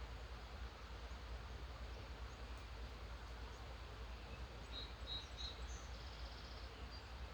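Faint songbird calls: three short high chirps about five seconds in, then a brief rapid trill. Under them runs a steady background hiss and low rumble.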